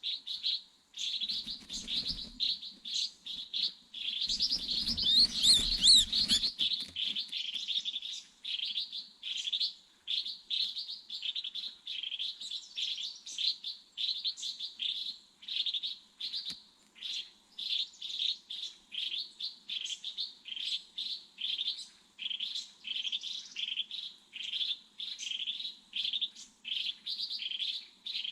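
A small bird chirping repeatedly, about one to two short high calls a second. A louder flurry of higher, faster chirps over a low rumble comes about five to six seconds in.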